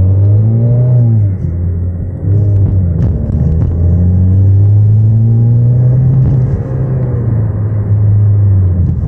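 2018 Chevrolet Camaro's 2.0-litre turbocharged four-cylinder, with cold air intake and muffler delete, heard from inside the cabin under way. The engine note climbs, drops briefly about a second and a half in, then climbs again and eases off near the end.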